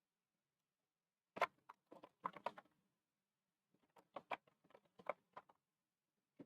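Computer keyboard typing, faint: two quick runs of keystrokes, one about a second and a half in and another just before the middle.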